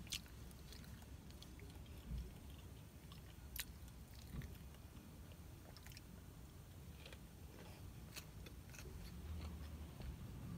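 Faint close-up chewing of a crispy chicken biscuit, with a bite and scattered small mouth clicks.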